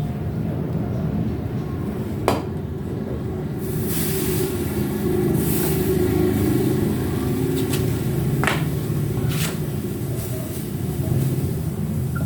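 A steady low mechanical hum, with a sharp click or tap about two seconds in and another a little past eight seconds.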